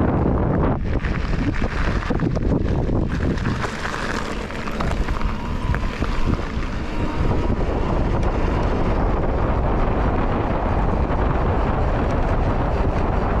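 Wind buffeting a chest-mounted GoPro's microphone while riding a mountain bike: a steady, loud rumbling noise.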